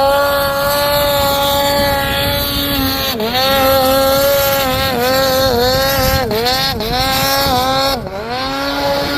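Snowmobile's two-stroke engine running hard at high revs. The pitch holds steady for about three seconds, then dips and climbs back again several times as the throttle is eased and reapplied.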